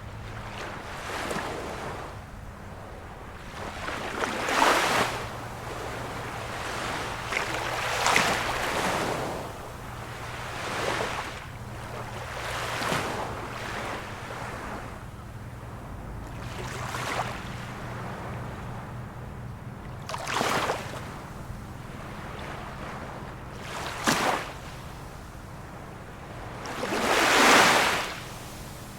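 Small waves of a calm sea breaking and washing on the shore, one swell every three to four seconds, the biggest near the end. A faint steady low hum runs underneath.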